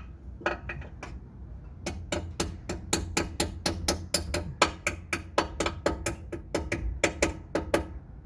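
Hand tool working on metal: a few sharp metallic clicks, then from about two seconds in a steady run of clicks, about four or five a second, that stops shortly before the end.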